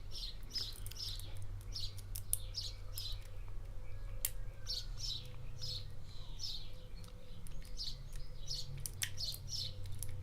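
Small bird chirping repeatedly, two or three short high chirps a second, over a steady low hum, with a few faint sharp clicks.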